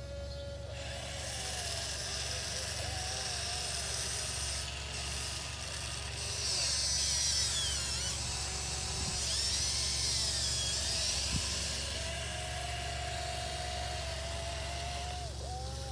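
Electric motors of a 1580 RC excavator whining as it digs, their pitch rising and falling as the arm and bucket move, loudest through the middle of the stretch.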